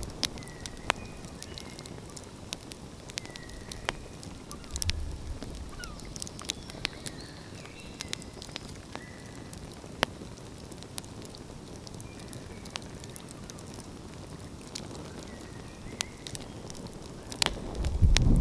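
Wood fire crackling, with irregular sharp pops and snaps over a quiet background. A low rumble rises just before the end.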